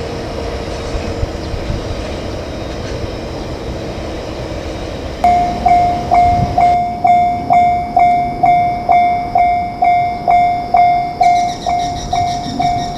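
Train running noise, a steady rumble. About five seconds in, a railway level-crossing warning bell starts up, ringing evenly at about two strikes a second.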